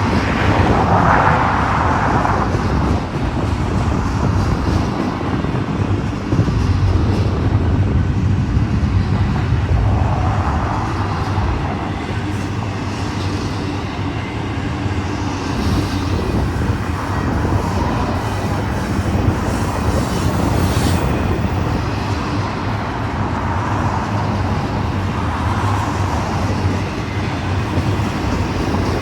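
Union Pacific intermodal freight train rolling past: a steady low rumble of wheels on rail, swelling every few seconds as cars go by.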